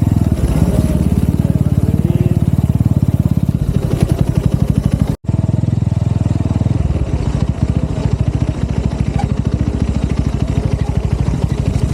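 Exhaust of a Honda CB-style motorcycle running steadily at low revs while being ridden along a dirt track, with rapid even firing pulses. The sound cuts out for a split second about five seconds in.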